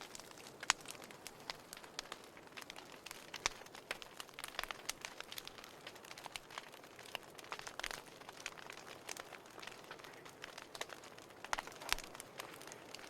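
Fire in a fireplace crackling: irregular sharp pops and snaps over a soft steady hiss.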